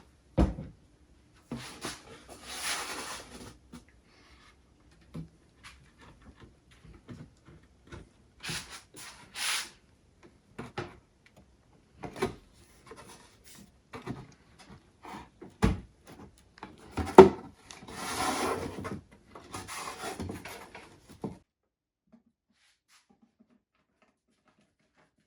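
Hand work on a piece of wooden furniture: scattered knocks and short bursts of rubbing against wood. It stops about four seconds before the end.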